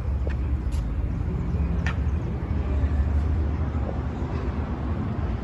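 Scania P 320 truck's five-cylinder diesel engine idling steadily, a low rumble, with a few light clicks over it.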